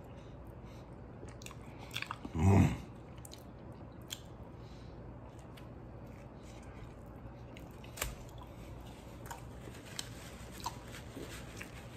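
A person biting into and chewing a soft flour-tortilla burrito (a Del Taco 8-layer burrito), with wet mouth sounds and small scattered clicks. A brief, louder low sound comes about two and a half seconds in.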